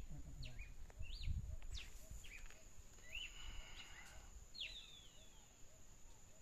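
Birds calling: several short chirps and whistled notes that sweep up and down, over a steady high-pitched whine and a faint low note repeating about twice a second. A few low thumps near the start and about a second in.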